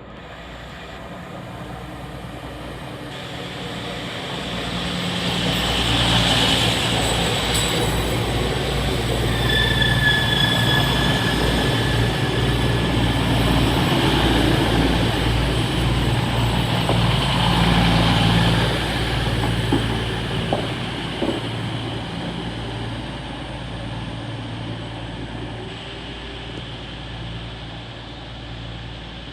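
Diesel train moving through the station, growing louder over the first six seconds, staying loud for about twelve seconds with a steady low engine note, then fading. A brief high wheel squeal about ten seconds in.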